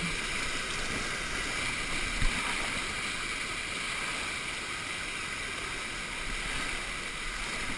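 Steady rush of churning water on a water-park river ride, with one brief thump about two seconds in.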